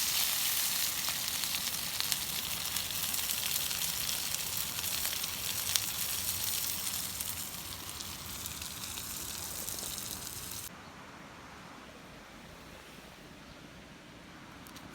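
Food sizzling in a hot pan, a steady hiss with small spatters that slowly fades, then cuts off abruptly about ten seconds in, leaving only faint background.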